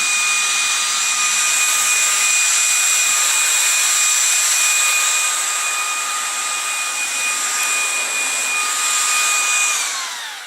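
LG CordZero A9 cordless stick vacuum running with a steady high whine over a rush of air. Near the end it is switched off, and the whine falls in pitch as the motor spins down.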